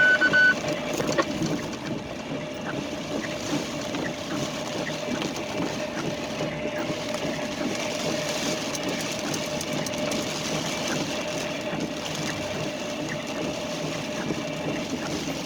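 Steady engine and road noise of a truck, heard from inside the cab, with a short high beep right at the start.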